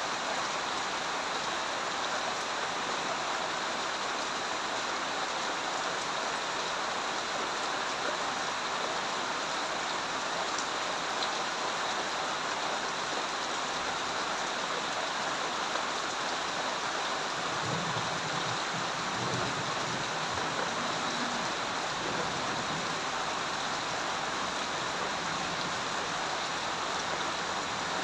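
Steady heavy rain falling at an even level. A low rumble rises under it a little past halfway and fades a few seconds later.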